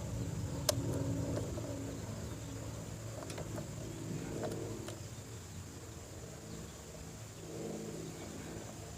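Sportsman 9000-watt portable generator's engine running steadily in the background, with a few light clicks about a second in and again around three to five seconds in. The generator is putting out almost no voltage at its 110 V outlet, which the owner puts down to a lost magnetic field that needs re-energizing.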